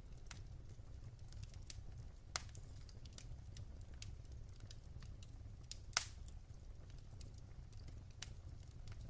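Wood fire crackling in a fireplace: scattered small sharp pops over a low steady rumble, with two louder pops, one a little over two seconds in and one at about six seconds.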